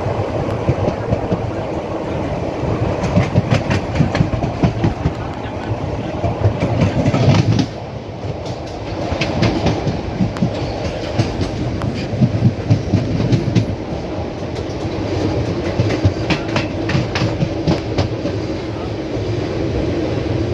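Passenger train coach running at speed, its wheels on the rails giving a steady rumble with clusters of clickety-clack over rail joints and points, heard from the open coach doorway. The rumble drops suddenly about a third of the way in.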